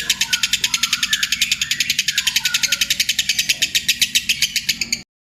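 Lovebird 'ngekek' song: a long, loud, rapid high-pitched chattering trill of more than ten notes a second, which cuts off suddenly near the end.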